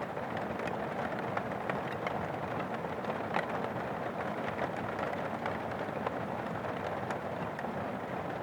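Steady rain, with many separate drops tapping on an open umbrella overhead.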